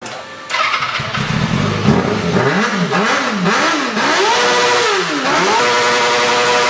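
Pit bike's 160 cc YX single-cylinder four-stroke engine revving: the engine note rises and falls about five times, then holds steady at high revs.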